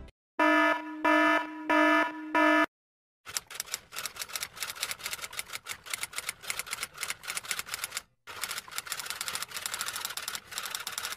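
An alarm beeps four times, about 0.6 s apart. A manual typewriter then clacks away in a rapid string of key strikes, pausing briefly about eight seconds in.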